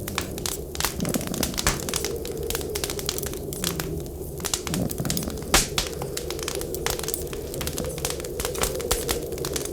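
Firewood burning in a fireplace, crackling with frequent sharp pops, the loudest about halfway through, over a steady whistling winter wind.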